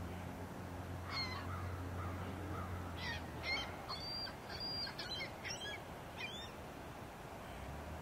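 A bird calling: one short call about a second in, then a quick run of about seven short calls over the next few seconds, against a steady low hum that drops out partway through.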